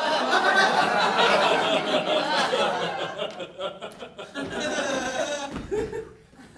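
Theatre audience laughing, loud at first and tapering off after about three or four seconds.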